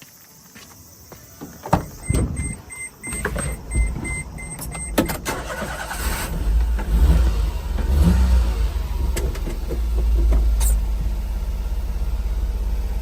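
1997 Daihatsu Hijet mini truck starting: a few clicks and a row of short repeated warning beeps, then the engine catches about three seconds in. It revs briefly and settles into a steady idle.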